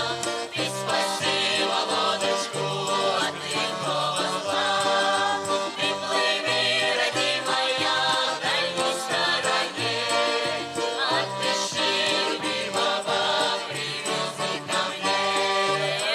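Instrumental folk music, led by an accordion, playing a melody over a steady alternating bass line between sung verses.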